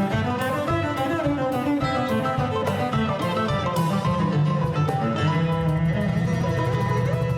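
Acoustic string music: plucked guitar and mandolin-like strings with bowed strings, over a steady beat of about two strokes a second.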